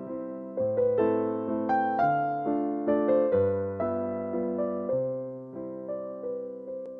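Gentle solo electric piano music: single notes and chords struck about two to three times a second, each ringing and fading before the next.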